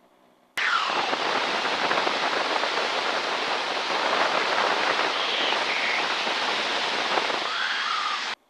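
Steady rushing cockpit noise of a T-6 Texan in flight, wind and engine heard through an open intercom microphone. It switches on suddenly about half a second in and cuts off suddenly near the end, as the mic opens and closes.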